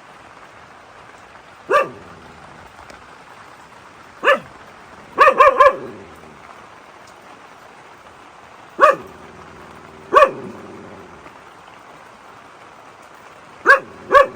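A dog barking in short single barks, with a quick run of three about five seconds in and two close together near the end, over the steady hiss of rain.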